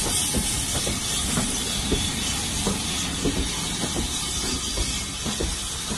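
Steam-hauled passenger coaches rolling past at close range, wheels knocking irregularly over the rail joints, under a steady hiss.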